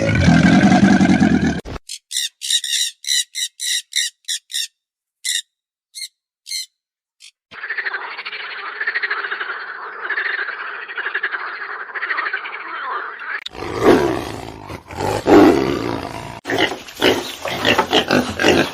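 Different animal calls cut one after another: a loud pitched call, then a run of short high calls with gaps between them, then a steady pulsing chorus for about six seconds, and near the end a dense, uneven stretch of louder calls.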